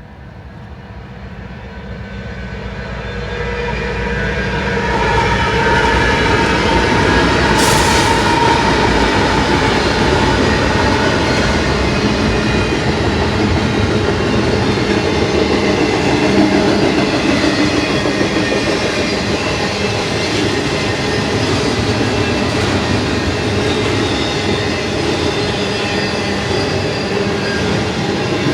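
BNSF intermodal freight train, led by five diesel-electric locomotives, passing close by: it grows louder over the first few seconds as it approaches, then the engines and rolling cars run steadily at full loudness. A brief sharp hiss-like burst comes about eight seconds in.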